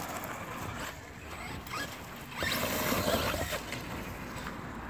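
Traxxas Rustler VXL RC trucks running through mud some way off: brushless electric motors giving a few brief rising whines as the throttle is blipped, over the tyres churning and spattering in the wet ground.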